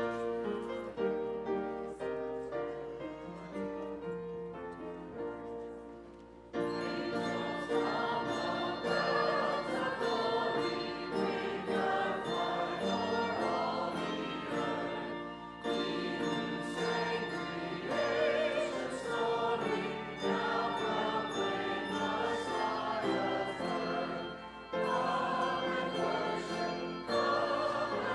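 Church music with choir singing, quieter and thinner for the first six seconds or so, then swelling into a fuller, louder sound.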